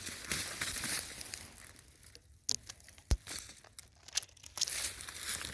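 Footsteps crunching through dry leaf litter and brushing through thick undergrowth. About two seconds in the rustling drops away for a couple of seconds, leaving a few sharp clicks and snaps, then the crunching picks up again.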